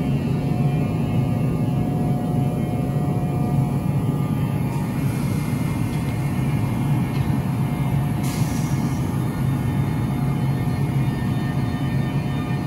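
A train standing or moving slowly, with a steady low hum and a short hiss of air about eight seconds in.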